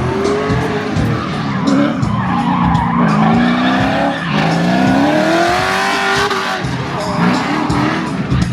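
LQ4-swapped drift car's 6.0-litre V8 revving up and down repeatedly with tyres squealing, over background music.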